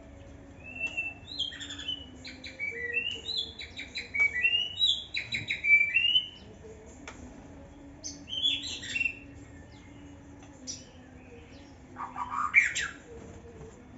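Young white-rumped shama singing: a run of quick, varied phrases that jump up and down in pitch for about six seconds, another short phrase a couple of seconds later, and a louder sweeping call near the end.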